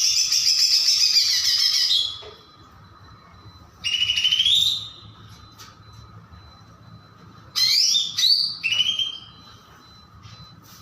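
Cucak ijo (green leafbird) singing in three bursts: a long rapid warbling phrase at the start, a short rising phrase about four seconds in, and a run of quick rising whistles near the end.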